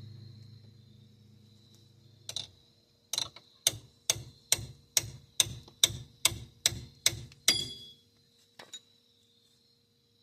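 Hammer blows on a metal tool set in a rusted hex-head brake caliper bolt, trying to shock it loose. There is one sharp ringing metal strike, then about a dozen at a steady pace of a little over two a second, and a last lighter one near the end.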